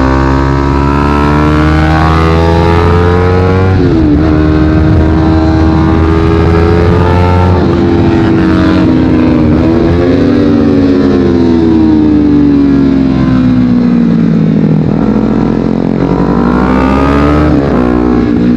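Honda CBR250RR parallel-twin engine through a Yoshimura exhaust, pulling hard up through the gears. Its pitch climbs and then drops at each upshift, about four, eight and ten seconds in. It then falls away for several seconds as the bike slows, and revs up again near the end.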